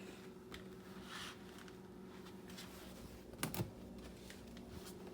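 Faint kitchen handling sounds: a few light clicks and one sharper knock about three and a half seconds in, over a steady low electrical hum.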